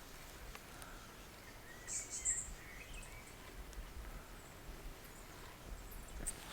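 Faint evening outdoor ambience with scattered small clicks and a brief cluster of short high chirps about two seconds in.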